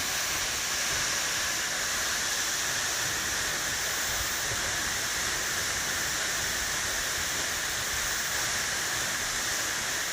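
Steady rush of falling water from Bridal Veil Falls, a 55-metre waterfall, as an even, unbroken hiss.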